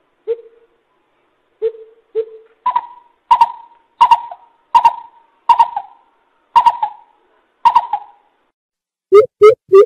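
Coucal hooting: a few spaced low hoots, then a run of about eight higher, falling notes at an even pace, and a quick series of low hoots starting again near the end.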